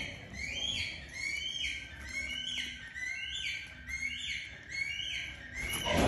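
Small birds chirping in a quick, steady series of short high notes, about two a second, with a brief rustling burst at the very end.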